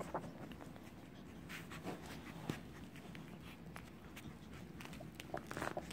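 A litter of young puppies nursing: faint scattered clicks and shuffling, with a few brief squeaks near the end.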